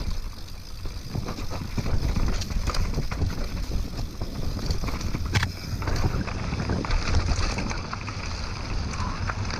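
Mountain bike (a Trek Remedy full-suspension) riding fast down a rooty dirt trail: steady wind rumble on the camera microphone with frequent rattles and knocks from the bike over roots, one sharper knock about halfway through.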